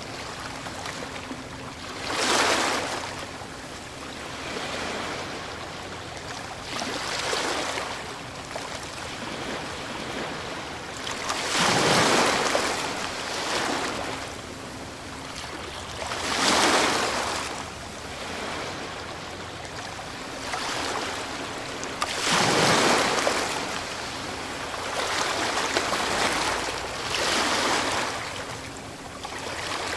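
Ocean waves breaking on a shore, each surge of surf rising and washing back, about every four to five seconds, with the biggest breakers in the middle stretch.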